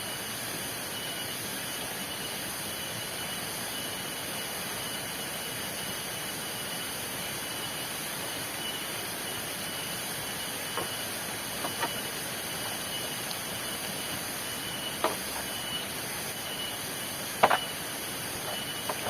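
Heavy rain falling steadily, with a few sharp taps in the second half, the loudest near the end.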